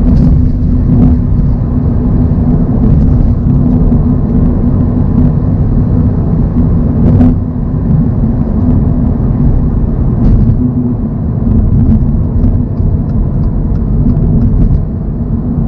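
2024 Toyota GR86's 2.4-litre flat-four engine and tyre noise at a steady cruise, a constant drone with one steady tone running through it.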